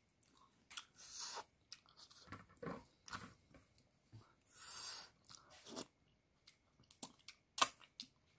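Close-miked chewing of chicken eaten by hand: soft, intermittent chewing and crunching with short wet mouth clicks, broken by brief quiet pauses.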